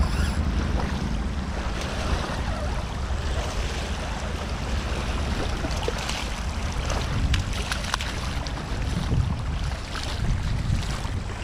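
Rushing water from a rain-swollen outflow, a steady full noise, with wind buffeting the microphone. A few sharp ticks come through around the middle.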